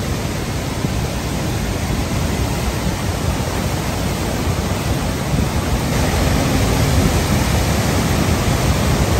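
Floodwater in a swollen river rushing in a loud, steady roar, a little louder about six seconds in.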